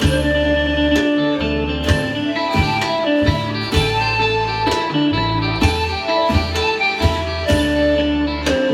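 Isan pong lang folk ensemble playing: a plucked string melody over deep sustained bass notes and a steady beat of drum strikes.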